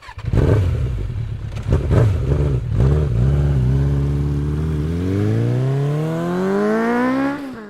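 Triumph Rocket 3 2.3-litre three-cylinder engine through a custom exhaust, blipped twice, then running steadily before rising smoothly in pitch for a couple of seconds as it picks up revs. It cuts off quickly near the end.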